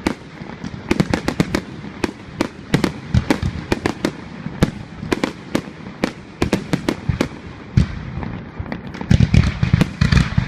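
Fireworks display: a rapid, irregular series of sharp bangs and pops, with a denser cluster of heavier booms near the end.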